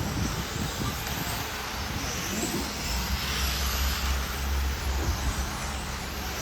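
Radio-controlled model racing cars running laps on a track, their high motor and tyre whine rising and falling as they pass, over a steady low rumble.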